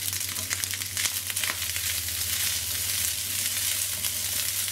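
Fried rice with bacon, egg and spring onions sizzling and crackling in a hot frying pan while a plastic spatula stirs and turns it. A steady low hum runs underneath.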